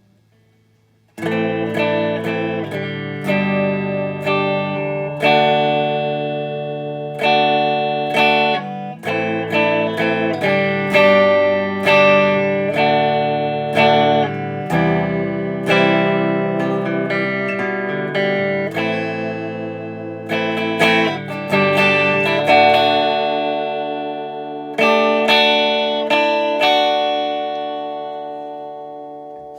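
Les Paul electric guitar played through a Marshall 2204-style 50-watt valve amp head clone, picked up by a phone's microphone: a run of strummed chords and notes starting about a second in, with the last chord left ringing and slowly fading near the end.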